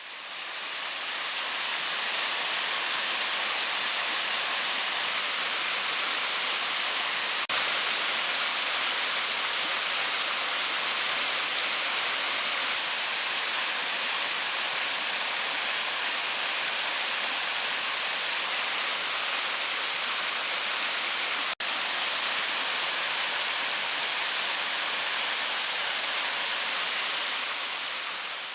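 Rushing stream water, a steady loud hiss of white water, with two very brief breaks where separate clips are spliced together.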